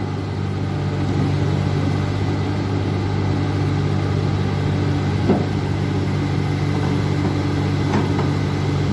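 Large diesel engine idling steadily, with a couple of faint knocks.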